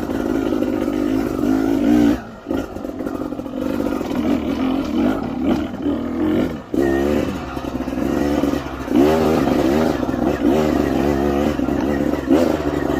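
Dirt bike engine being ridden, its pitch rising and falling again and again with the throttle, with short dips where it eases off.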